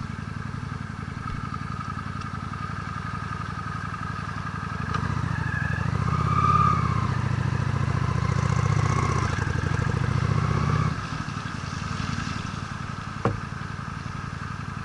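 Honda Steed V-twin motorcycle engine running under way. It gets louder about a third of the way in as the throttle is opened, holds for about six seconds, then drops back. A single sharp click comes near the end.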